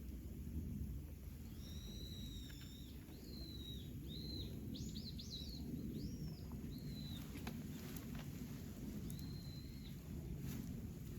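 A wild bird sings a run of short, clear whistled notes for several seconds, then one more phrase near the end. Beneath it is a steady low rumble with a few sharp crackling pops from a wood campfire.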